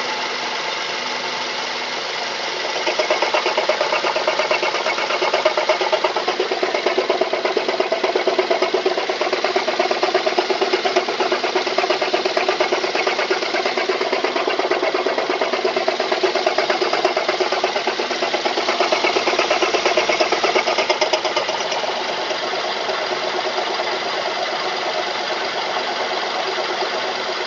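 Mazda 3 engine running with a fast, steady knocking or ticking from the engine, the unexplained knock the owner is asking about. The noise gets louder about three seconds in and drops back again near the end.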